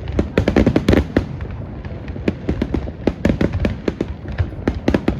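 Fireworks display: a dense, rapid run of sharp pops and bangs over a steady low rumble, coming in clusters, the busiest about half a second in and again around the middle.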